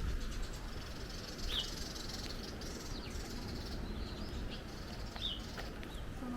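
A bird giving short, high, down-slurred chirps twice, a few seconds apart, over a steady low rumble of strong wind on the microphone.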